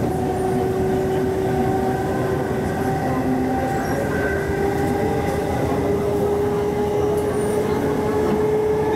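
MTR East Rail Line MLR electric multiple unit running, a steady rumble with a whine that slowly rises in pitch as the train picks up speed.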